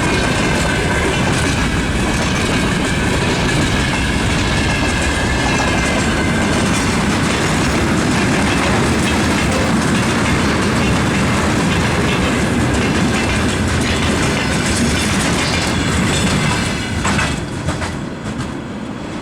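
Loaded freight train rolling past at speed, its wagons' wheels clattering over the rail joints in a steady rumble, with a faint high wheel squeal in the first few seconds. The noise eases a little near the end.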